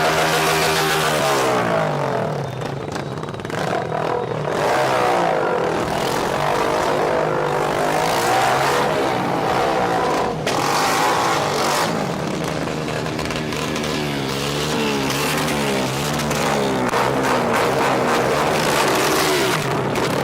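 Car engines being revved, the pitch rising and falling again and again.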